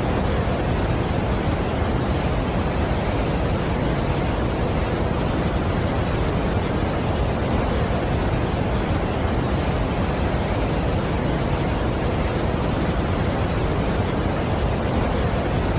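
Steady, unbroken rush of a large waterfall, heaviest in the low end, with no separate events.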